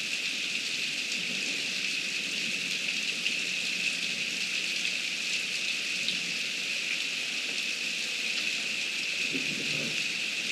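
Heavy rain falling steadily, a continuous hiss flecked with the patter of individual drops.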